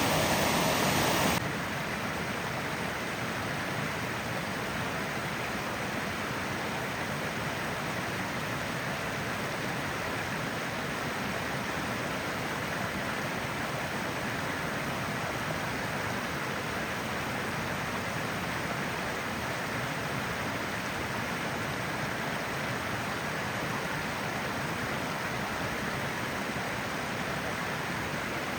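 Small roadside waterfall: water rushing steadily, a little louder for the first second or so.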